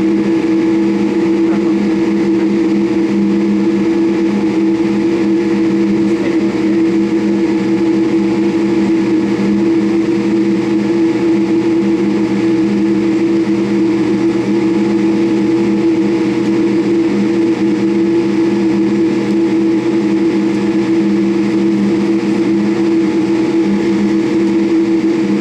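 Boeing 787 Dreamliner cabin noise heard from a seat near the wing: the jet engines and airflow give a steady hum with several fixed tones and no change in pitch.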